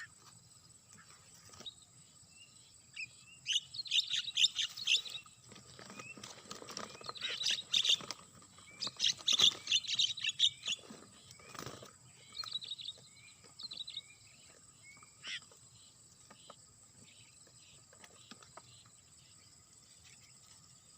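Birds chirping and calling in three dense bursts of rapid chirps in the first half, then scattered short rising calls that thin out. A faint steady high-pitched tone continues underneath.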